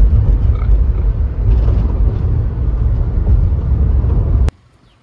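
Loud, steady low rumble of a vehicle on the move, cutting off abruptly about four and a half seconds in.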